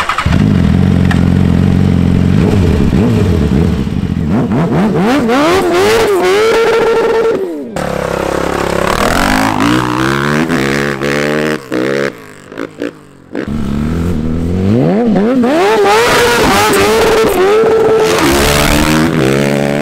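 BMW S1000RR's inline-four engine revving hard close by, its pitch climbing and falling again and again and holding high for a moment. After a sudden break about eight seconds in, more engines rev and accelerate, dropping away briefly twice before revving up loud again near the end.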